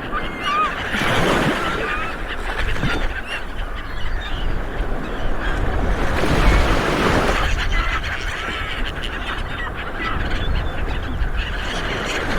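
A flock of seabirds calling in many short, overlapping squawks, over a rushing noise that swells and fades a few times.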